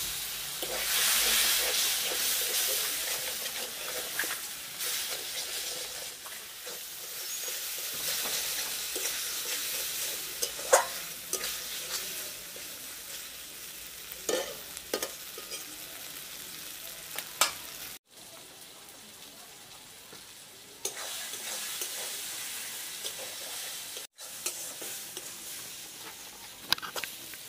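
Onion-tomato masala frying in mustard oil in a metal kadai, sizzling hardest in the first few seconds after a little water goes in, then settling to a steady sizzle. A metal spatula stirs and scrapes through it, with a few sharp clicks against the pan.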